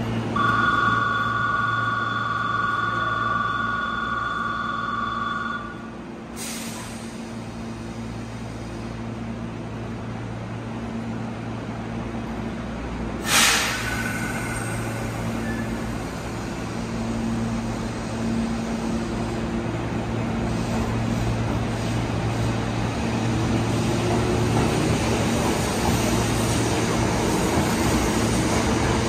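Electric train standing at a station platform with a steady low hum. A steady two-tone electronic signal sounds for about the first five seconds. A short, loud air burst comes about halfway, then the train starts off near the end with a rising motor whine and growing running noise.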